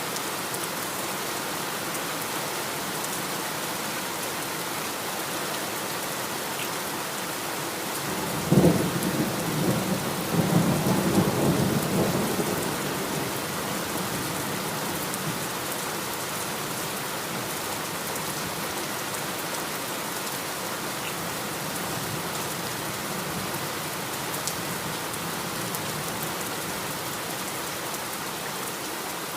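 Steady heavy rain with a thunderclap about eight seconds in, rumbling on for a few seconds before fading back into the rain.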